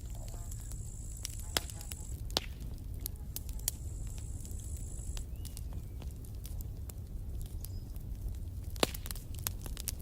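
Campfire crackling, with irregular sharp pops over a low steady rumble; the loudest pop comes near the end. Twice a thin high whine rises over the crackle for a second or two.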